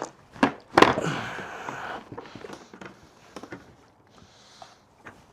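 Hard knocks and clunks in the first second, the loudest about a second in, then a brief scraping rattle and a few light clicks: the plastic fuel tank being tugged and shifted as it is worked loose from the dirt bike.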